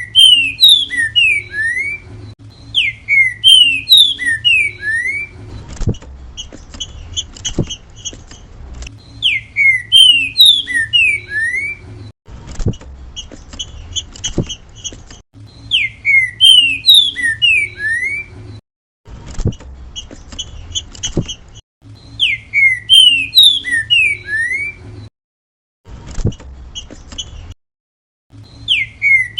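Green-winged saltator (trinca-ferro) singing the 'grego mole boi' song type: a repeated phrase of five or six clear whistled notes gliding up and down, given about every six or seven seconds, with softer short notes between the phrases.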